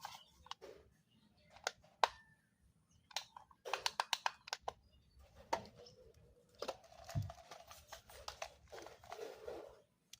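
Toy packaging being handled: irregular sharp clicks and short crinkling rustles, fairly quiet.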